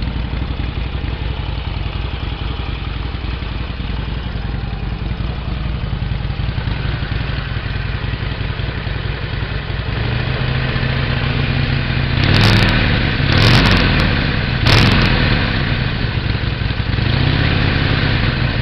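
Harley-Davidson Sportster 1200 Custom's V-twin idling through its stock exhaust. Two thirds of the way through, the throttle is blipped three times in quick succession, three short revs, and it then settles back to idle.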